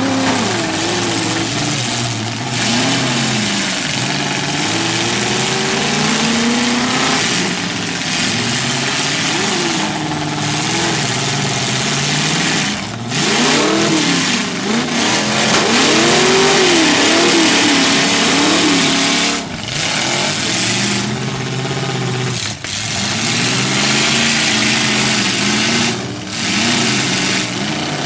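Several demolition derby car engines revving hard at once while the cars push against each other, their pitch rising and falling over and over, with a few short dips in loudness.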